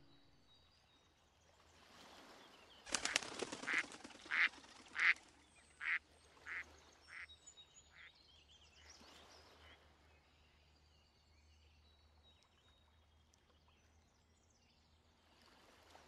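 A duck quacking a run of about eight or nine quacks over some five seconds. The first quacks are loudest and the rest grow shorter and fainter. Faint bird chirps are behind it.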